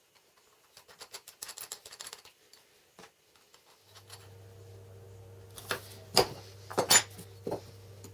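Small metal parts clinking and rattling as they are handled. About four seconds in, a steady electric hum starts, and several sharp metal clinks follow over it.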